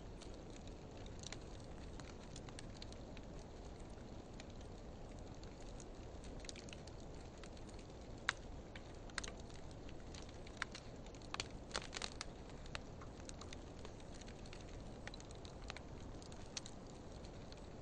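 Wood fire of driftwood and dry hardwood burning with a steady low hiss of flame and scattered sharp pops and crackles, bunched together a little past the middle.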